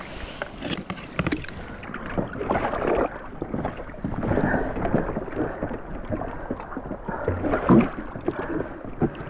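Whitewater splashing and rushing around a kayak as it runs through a rapid, with irregular splashes throughout.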